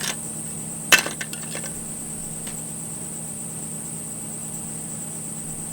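Small hard toy pieces clattering: one sharp clack about a second in, then a few light clinks, over a steady high-pitched hum.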